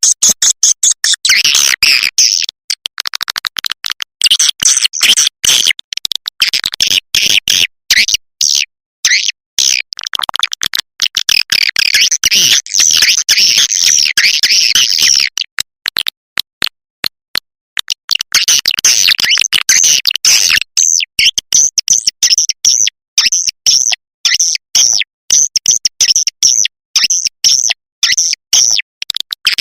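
Swiftlet lure recording: dense, high-pitched twittering and clicking chirps of swiftlets, played in rapid stuttering runs with brief gaps, as used to call swiftlets into a nesting house. The sound drops out for about two seconds past the middle, then comes back in evenly repeated bursts.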